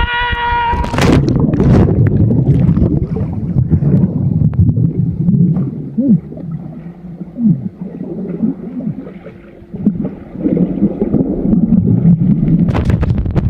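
An action camera in its waterproof housing rides down a water slide: rushing water and wind buffeting make a heavy, low rumble that eases briefly in the middle and then comes back loud. A short, steady whistle sounds at the very start.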